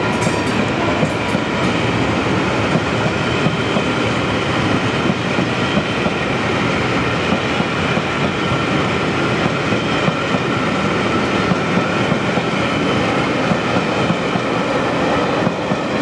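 Train running on the rails: a steady, unbroken rumble of wheels and running gear with faint high ringing tones over it.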